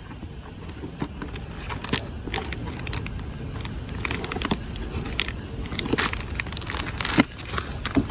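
Cardboard crackling and rustling in irregular bursts as a monkey handles it and pulls food out through a hole, over a steady low rumble.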